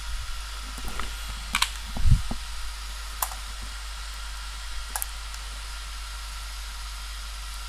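Computer mouse clicking a few separate times, with a soft thump about two seconds in, over a steady low electrical hum and room noise.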